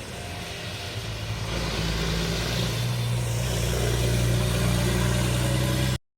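Diesel engine of a racing truck running under load, growing louder over the first couple of seconds and then holding steady, before the sound cuts off abruptly near the end.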